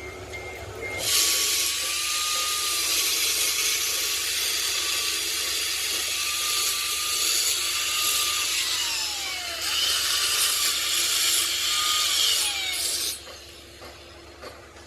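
A handheld power tool runs for about twelve seconds with a loud hiss and a whine that sags in pitch now and then under load. It starts about a second in and stops near the end.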